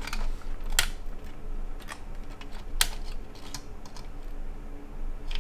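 Irregular sharp clicks and light rattling of cables, connectors and plastic parts being handled while a PC is assembled in a small-form-factor case; the loudest clicks come about a second in and near the middle.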